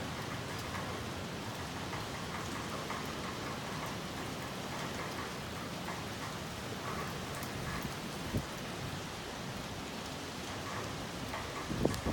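Heavy typhoon rain falling steadily in a continuous hiss. A single dull knock comes about eight seconds in, and a few more come near the end.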